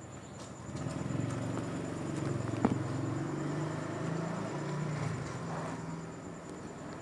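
Domestic cat purring close by: a low, pulsing drone that shifts slightly in pitch every second or so, as with breathing in and out, fading out near the end. A single sharp click about a third of the way through is the loudest sound.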